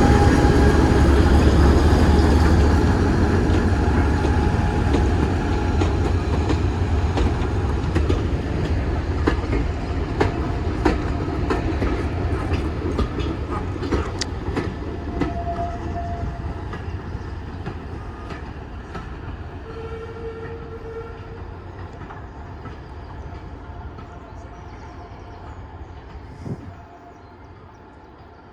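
Diesel locomotive and its train passing and moving away. A heavy engine rumble is loudest at first, then the wheels click over rail joints as the sound fades steadily into the distance.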